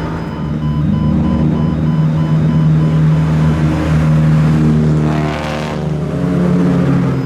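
Modified car's exhaust running loud at low revs as the car pulls away, the engine note holding steady with small lifts in throttle. A short rush of noise rises over it about five seconds in.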